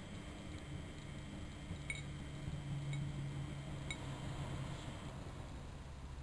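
Miele Novotronic Meteor 2200 washing machine running a 95 °C boil wash: a steady low motor hum that swells about halfway through, with a light metallic clink about every two seconds.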